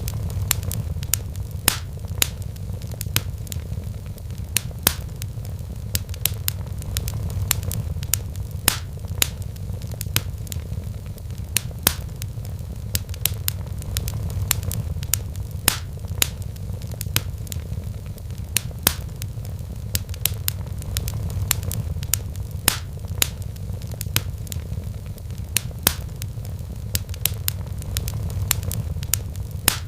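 Wood fire crackling in a fireplace, with irregular sharp pops and snaps several times a second over a steady low rumble.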